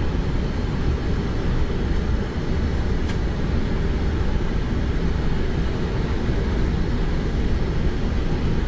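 Steady aircraft engine and airframe noise heard inside the cockpit while taxiing, a constant low rumble, with one faint click about three seconds in.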